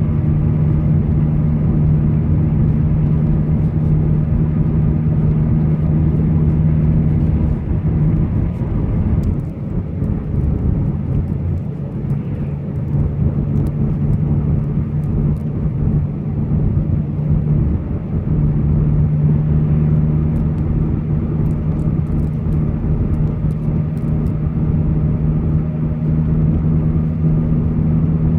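A car driving along a highway at a steady speed: a steady engine drone over tyre and road noise. The drone fades for a few seconds about nine seconds in, then returns.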